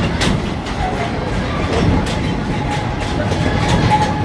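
Narrow-gauge excursion train running along the track: a steady rumble with the wheels clicking over the rail joints.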